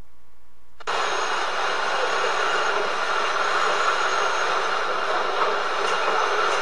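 Train running along the rails, a steady rushing rail noise that starts about a second in after a faint low hum.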